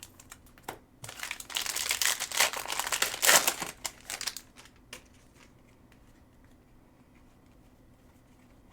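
A trading-card pack's foil wrapper crinkling as it is handled, for about three seconds starting about a second in.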